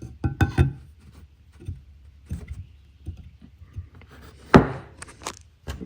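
Clicks and knocks of a small metal measuring tool being handled and worked over a part, with the sharpest knock about four and a half seconds in.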